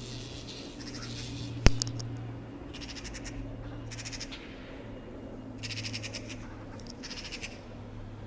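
Magpies giving harsh rattling chatter calls in three short bursts, about three, six and seven seconds in, over a steady low hum. A single sharp knock sounds about a second and a half in.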